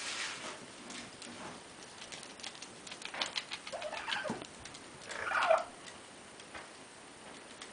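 Rapid small clicks and ticks, then two short animal calls from a pet parrot or puppy. The second call, about five and a half seconds in, is the louder.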